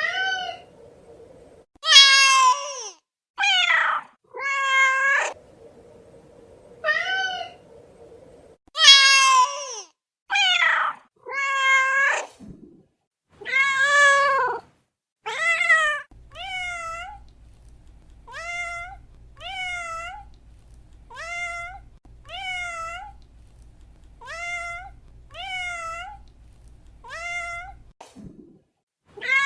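Domestic cat meowing over and over: long, loud meows at first, then from about halfway a run of shorter meows about one a second and a half.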